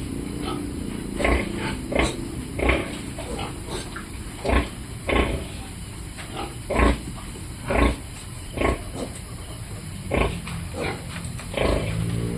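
Pigs grunting while piglets feed, with short calls repeated roughly once a second over a steady low background.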